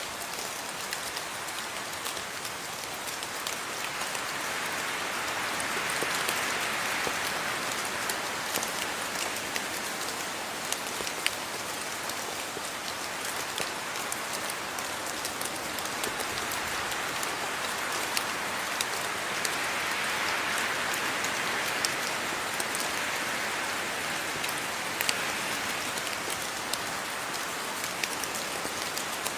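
Steady rain falling, with many individual drops ticking sharply over the hiss. The downpour swells a little and eases back twice.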